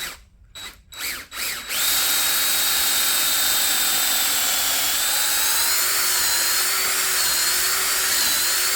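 Power drill boring a centre hole into the end grain of a wooden 4x4 post. A few short trigger blips come first, then about two seconds in it runs steadily with a slightly wavering pitch under load, and stops sharply at the end.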